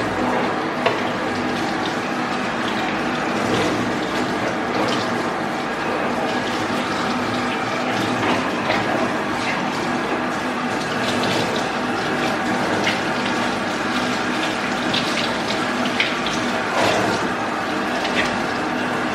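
Water running steadily from a tap or shower hose for a dog's bath, with a steady mechanical hum underneath and scattered small clicks and knocks.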